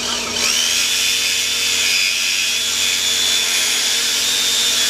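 A high-speed power tool spins up with a rising whine and then runs steadily at full speed with a loud hiss.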